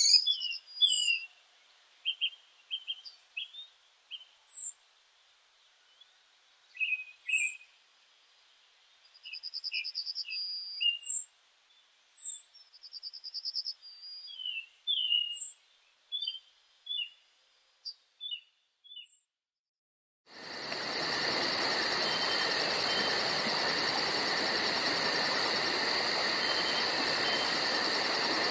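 Songbirds chirping and calling, with two short rapid trills among the calls. About two-thirds of the way through, after a moment of near silence, a steady, louder buzzing drone begins and runs on, like a dense insect chorus.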